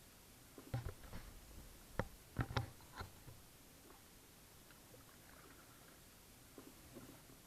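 Kayak paddling: faint splashes and knocks of the paddle working the water, several in quick succession over the first three seconds, then only faint ripple and a few light taps.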